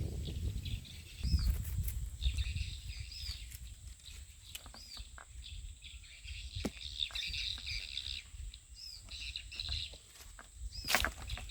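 Small birds chirping over and over in short arching notes, over a steady thin high whine. Low rustling and handling noises, loudest in the first couple of seconds, and a few sharp clicks, the loudest near the end.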